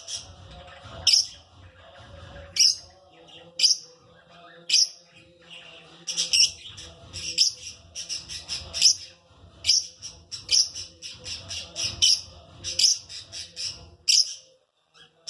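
Lovebird giving loud, sharp, high-pitched chirps and shrieks in quick runs, busiest about six to nine seconds in.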